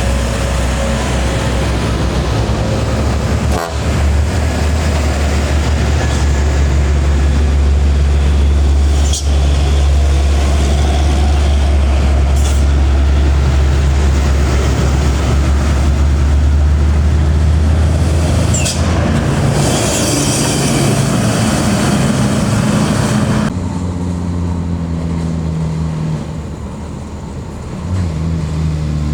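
Heavy diesel trucks' engines labouring up a steep climb, a loud steady low rumble, with a burst of hiss about two-thirds of the way through. The rumble drops off abruptly near the end, leaving a lighter engine note.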